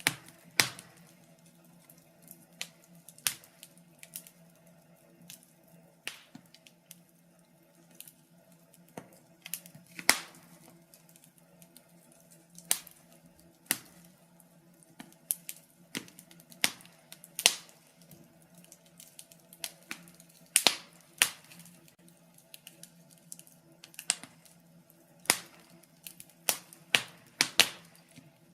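Wood fire crackling in a fireplace: irregular sharp pops and snaps from the burning timber, a few every couple of seconds, with clusters of louder pops, over a faint steady hum.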